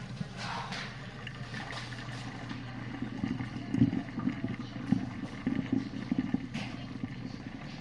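Whirlpool dishwasher draining: the drain pump runs with a steady low hum, and water gurgles through it in uneven spurts over the second half.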